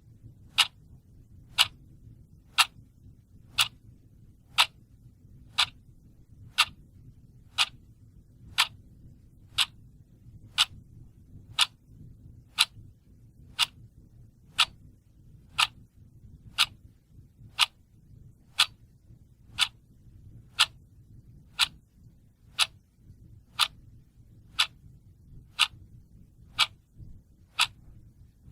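Clock ticking steadily, about one tick a second, over a faint low background hum.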